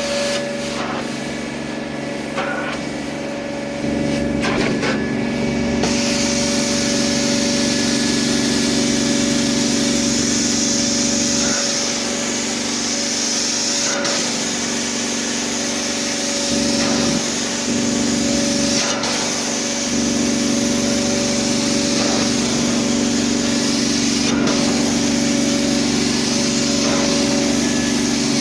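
Hydramaster Boxxer 421 truck-mount carpet cleaner running with a steady machine drone; about six seconds in a loud hiss starts as the cleaning wand sprays water and vacuums it back out of the carpet, the sound shifting a little between strokes.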